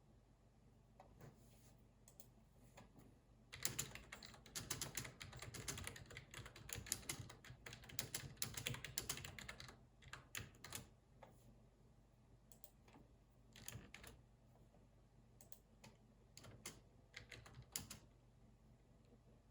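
Computer keyboard typing: a few scattered clicks, then a fast continuous run of keystrokes lasting about six seconds, then short bursts and single clicks.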